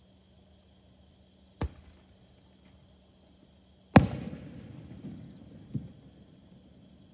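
Fireworks going off: a sharp bang, then about two seconds later a much louder burst whose rumble and crackle die away over a second or so, and a smaller thump near the end. Insects keep up a steady high chirring throughout.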